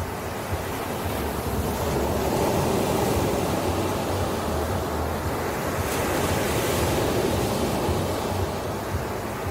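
Ocean waves washing in as surf. One surge swells over the first couple of seconds, holds, then eases off near the end.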